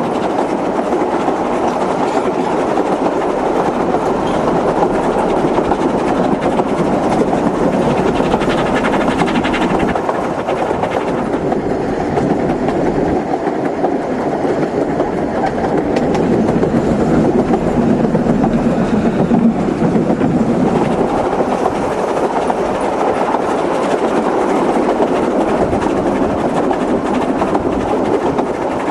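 Narrow-gauge steam train running along the track, heard as steady wheel-on-rail noise from the moving train.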